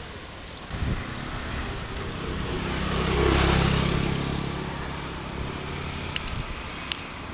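A motor vehicle passing on a rain-wet road: engine hum and tyre hiss build to a peak about halfway through, then fade. A short thump comes about a second in, and a few sharp ticks near the end.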